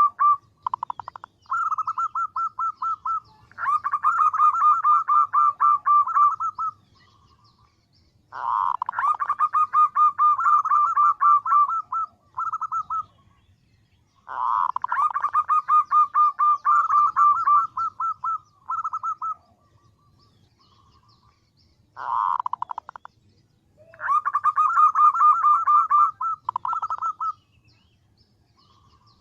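Female zebra dove (perkutut) calling to attract a male. She gives bursts of rapid, evenly pulsed notes, each a few seconds long, about five times over, with short pauses between.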